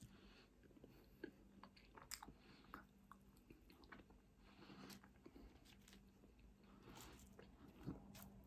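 Faint chewing of chip-shop chips, with scattered small wet mouth clicks.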